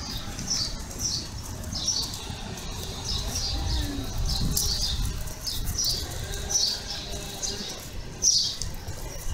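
Small birds chirping: short, high chirps repeated every half second to a second, over a low outdoor rumble.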